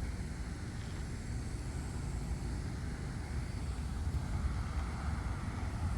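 Outdoor evening ambience: a steady low rumble with a faint, thin high-pitched drone of cicadas above it.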